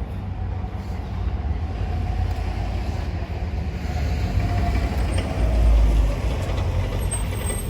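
Low rumble of a passing vehicle that swells to its loudest about five to six seconds in, with a faint whine that drops slightly in pitch.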